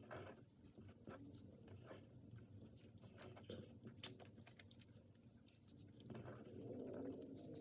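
Near silence: faint scratching and light tapping of a drawing pen on paper, in a small quiet room.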